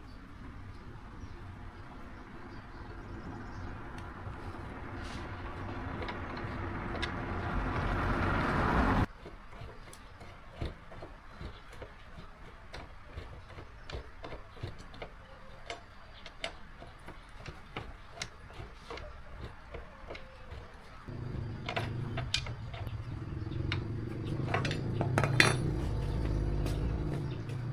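Workshop sounds from work on small metal parts: a steady machine-like noise that grows louder and stops suddenly about nine seconds in, then a run of light metal clinks and taps, then a low steady hum with a few sharp knocks over it near the end.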